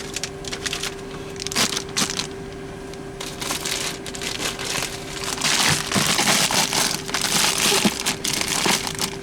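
Plastic food packaging and zip-top bags crinkling and rustling as they are handled and packed down, the crinkling growing denser and louder about halfway through, over a steady faint hum.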